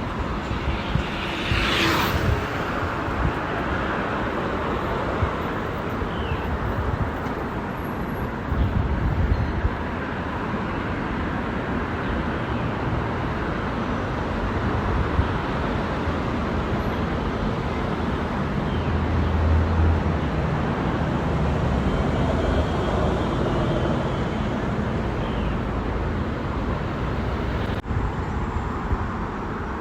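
Steady road and traffic noise heard from a moving bicycle, with a short high hiss about two seconds in and a low rumble passing by around two-thirds of the way through.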